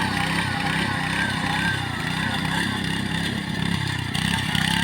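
Engine of a rice harvesting machine running steadily.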